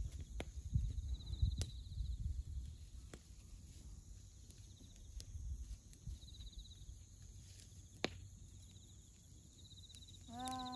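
Wood bonfire of dry firewood crackling, with a few sharp pops, while bell crickets (suzumushi) chirp in short, high, pulsing trills. A low wind rumble on the microphone fills the first few seconds.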